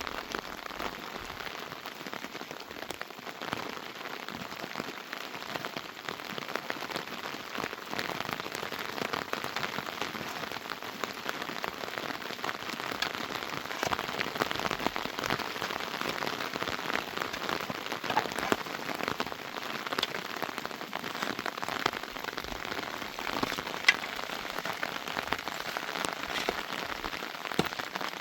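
Heavy rain falling steadily, a dense patter of many drops, with one sharper drop hitting about 24 seconds in.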